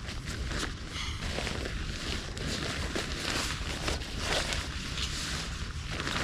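Irregular rustling and footsteps on forest ground over a steady hiss of rain, with low wind rumble on the microphone.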